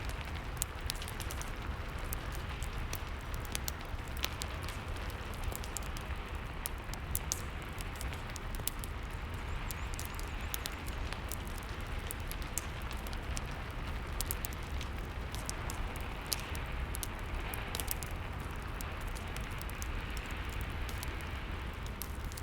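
Steady rain mixed with a fireplace: an even hiss of rain with frequent small crackles and pops of burning wood.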